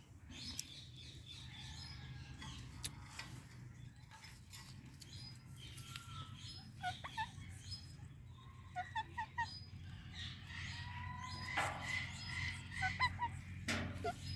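Pet parrots making short squawks and chirps on and off, coming more often in the second half, over a steady low hum.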